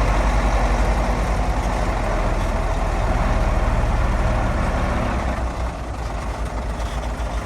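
Heavy diesel engine of earthmoving machinery running with a steady low, pulsing drone, which eases off about five and a half seconds in.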